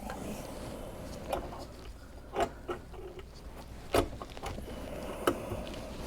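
A handful of sharp, separate clicks and knocks from hand tools and parts being handled during work on a garbage disposal's wiring. The loudest knock comes about four seconds in.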